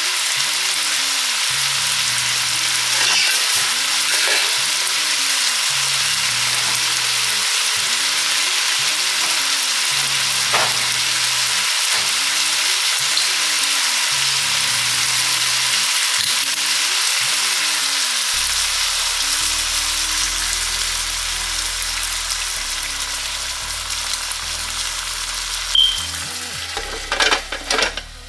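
Food sizzling steadily in a hot frying pan, with a few sharp knocks near the end, over soft background music.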